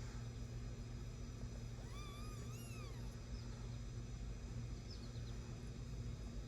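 A newborn kitten mews once, a single cry about a second long that rises and then falls, about two seconds in, over a steady low hum.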